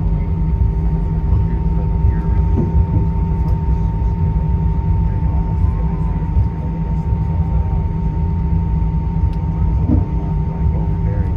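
Airbus A320 passenger-cabin noise: a steady, loud rumble of engines and airflow with a constant hum and a thin steady whine over it.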